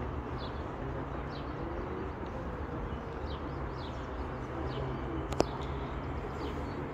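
Outdoor ambience with small birds giving short, repeated falling chirps over a steady low hum. One sharp click comes a little past five seconds in.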